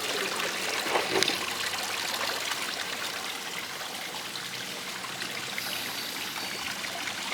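Steady rush of running water, like a stream or waterfall, with a faint voice briefly about a second in.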